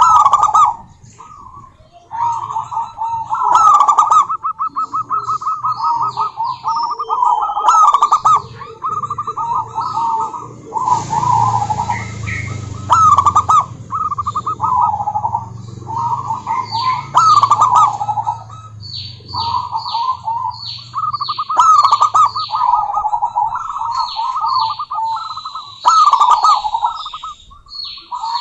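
Zebra doves cooing: rapid runs of staccato, trilling coos, phrase after phrase with short breaks. Quick falling chirps from smaller birds join in during the second half.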